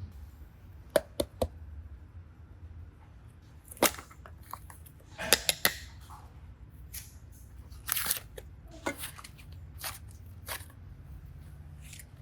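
Slime being handled, with irregular sharp clicks and pops as it is pressed and pulled: three quick clicks about a second in, then more scattered pops, over a low steady hum.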